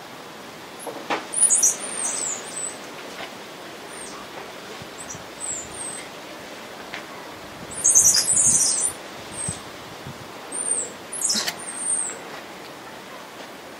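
Small birds chirping in quick, high-pitched bursts of short notes, loudest about a second and a half in, around eight seconds in and again near eleven seconds.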